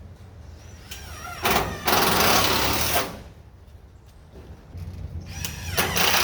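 Power drill driving screws through metal corner trim into a building's tin siding, twice. Each run is about a second and a half long and starts with a brief rising whine.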